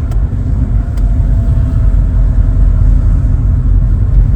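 Vauxhall Cavalier with its 2-litre C20NE four-cylinder engine, driving along, heard from inside the cabin as a steady low engine and road rumble, getting a little louder about a second in.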